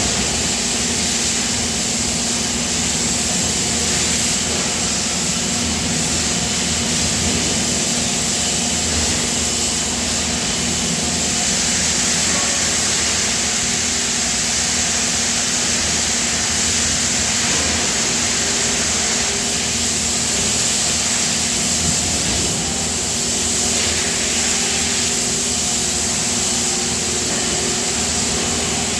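Die-casting plant machinery running steadily: a constant low mechanical hum with a strong hiss over it, the hiss swelling briefly a couple of times.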